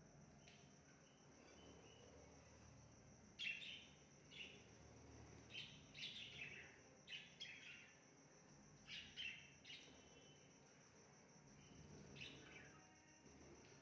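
Faint birdsong: short, falling chirps every second or so, some in quick pairs, over a steady high-pitched insect drone.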